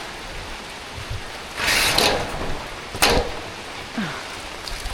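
Heavy rain falling steadily, with a brief loud rush of noise about a second and a half in and a sharp knock about three seconds in.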